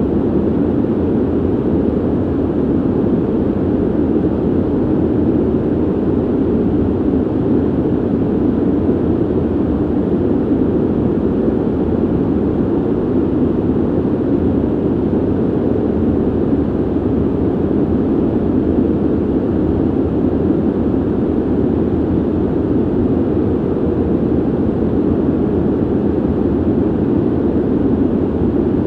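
Ventilation air noise: a steady, deep rush of moving air with no hum, ticks or changes.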